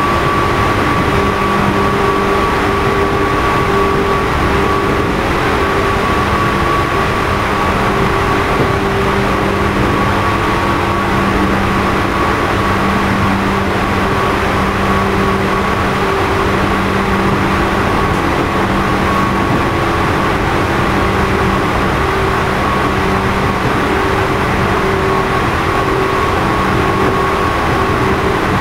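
Running noise inside a JR East 211 series electric train's motor car, MoHa 211-1, at steady speed: a steady rumble of wheels on rail with held whining tones from the DC traction motors. This car has motors with external cooling fans and is known for an unusual motor noise.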